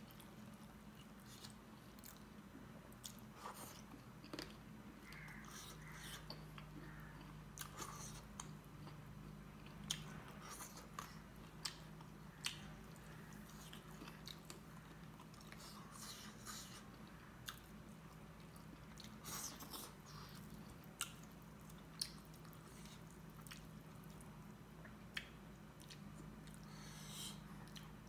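Close-miked eating sounds of a man chewing chicken curry and dhido, with scattered soft clicks and smacks from his mouth and fingers in the food. A faint steady low hum runs underneath.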